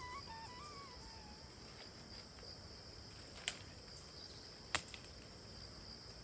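Flute music trailing off in the first second or so, then a faint steady chorus of crickets and insects, with two sharp clicks about three and a half and about five seconds in.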